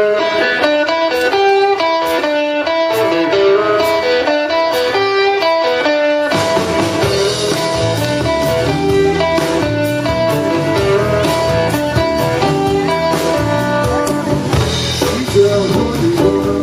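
Live blues band starting a Cajun-blues song: a guitar plays the opening riff alone, and about six seconds in the bass and drums come in and the full band plays on.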